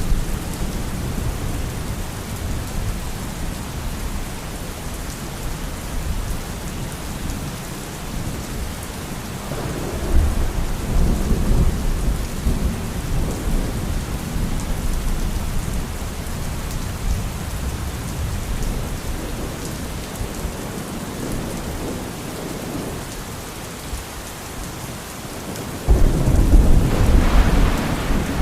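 Steady heavy rain with rolling thunder: a long rumble swells about ten seconds in, and a louder, sudden crack-and-rumble of thunder breaks near the end.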